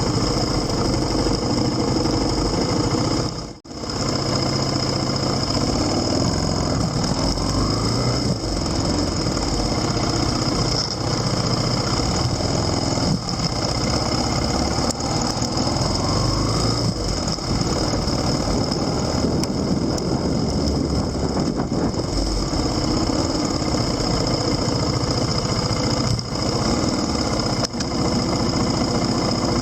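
A vehicle engine running steadily, with a short dropout in the sound about three and a half seconds in.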